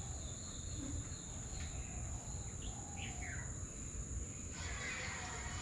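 Outdoor nature ambience: a steady high-pitched insect drone with a few short, falling bird chirps around the middle, over a low rumble.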